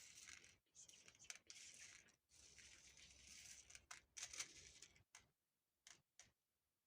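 Soft, close-up rustling and scratching noises made for ASMR, a near-continuous run of hissy strokes that breaks into a few short separate brushes about five seconds in.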